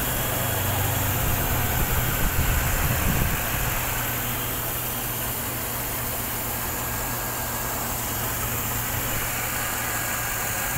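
Mercedes-Benz M273 V8 engine idling, running again after six years standing with its pistons stuck by old carbon. The idle is a little uneven for the first few seconds, then settles to a steady hum.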